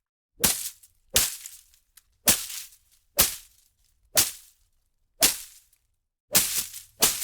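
Leafy plants and undergrowth being whipped and slashed: a series of sharp swishing strikes through foliage, about one a second, each trailing off quickly, with two coming closer together near the end.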